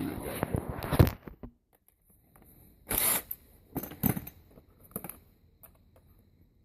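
Clicking and clattering of hand tools and drill bits being handled while changing to a larger bit, busy at the start, then short bursts about three, four and five seconds in. The drill itself is not running.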